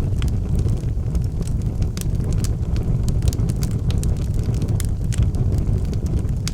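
Wood fire burning in a fireplace: a steady low rumble of flame with frequent sharp crackles and pops from the burning logs.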